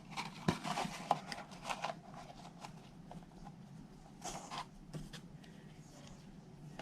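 Faint rustling and small scattered clicks of a paper box and ribbon being handled, as the box is tied closed with ribbon.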